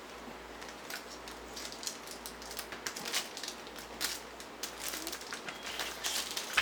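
Light clicks and rustles of a CD album's plastic case and packaging being handled and opened, scattered irregularly.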